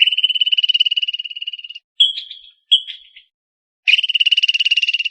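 Squirrel calling: a high-pitched, rapid chattering trill lasting almost two seconds, then two short chirps, then a second long trill starting about four seconds in.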